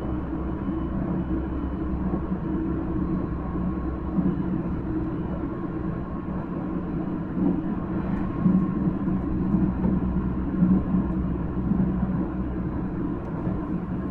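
Running noise heard inside a Nankai 1000 series electric train car moving at a steady speed: a continuous rumble of wheels on the rails, with faint high steady tones over it.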